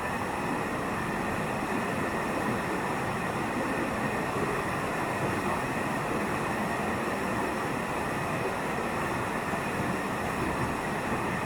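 Steady rush of a waterfall in full flow, a dense, even noise of falling water.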